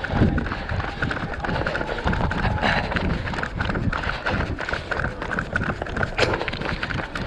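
Quick, steady running footfalls, knocking in an even rhythm, picked up by a GoPro that jolts with every stride.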